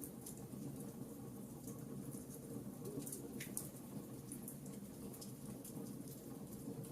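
Wood fire burning in a fireplace: a steady low rush of flames with many small crackles scattered throughout, and one fuller pop about three and a half seconds in.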